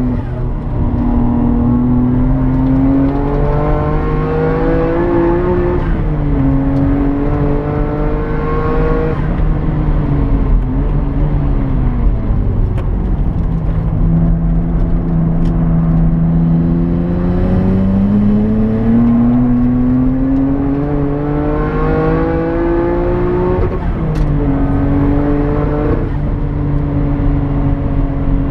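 Nissan R33 GTR's twin-turbo RB26DETT straight-six, misfiring from a blown head gasket. The revs are slowly raised and let back down twice, dropping sharply near the end.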